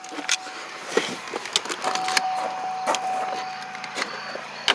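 Small clicks and knocks of things being handled inside a parked car's cabin after the engine is switched off, with a steady electronic tone sounding twice, once briefly at the start and again for about two seconds in the middle.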